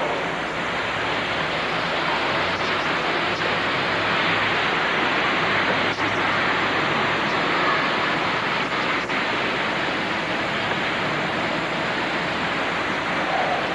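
Steady rain: an even, loud hiss with a few faint sharp taps.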